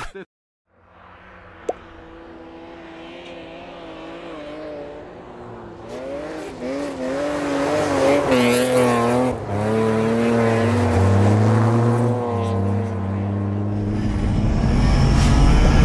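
Car engine revving hard as it drifts on snow and ice, its pitch rising and falling with the throttle, fading in after a moment of silence and growing steadily louder as the car comes closer.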